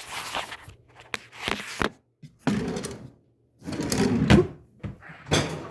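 Close handling noise: five bursts of rustling and knocking, with a few sharp clicks between them.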